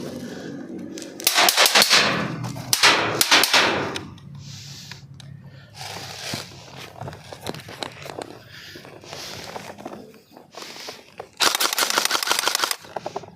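Airsoft electric rifle firing three full-auto bursts of rapid clicks, about a second each: two close together near the start and one near the end.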